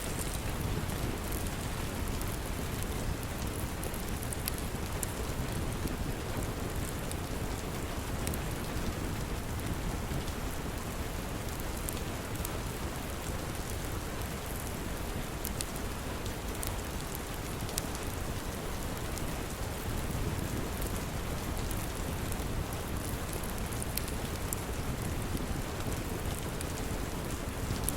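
Steady rain with a low rumble underneath and scattered sharp little ticks and crackles on top.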